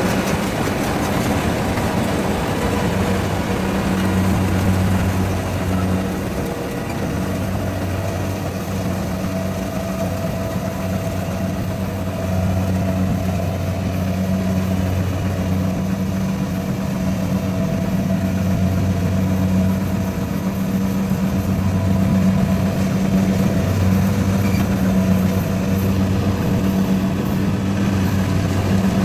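Rice harvester's engine running steadily with a low hum, dipping a little in level for a few seconds before rising again.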